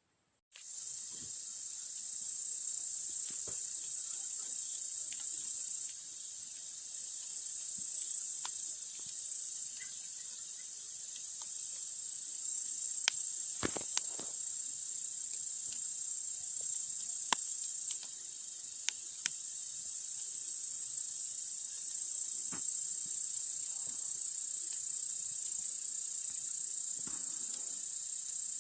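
Steady high-pitched chorus of crickets, with a campfire's occasional sharp crackles and pops, a few close together around the middle.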